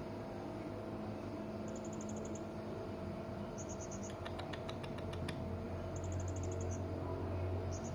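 Hanging parrot (serindit) calling in short, rapid trains of high-pitched chirps, each about half a second long, repeated every couple of seconds. In the middle comes a run of about eight sharp clicks over a second or so, over a steady low hum.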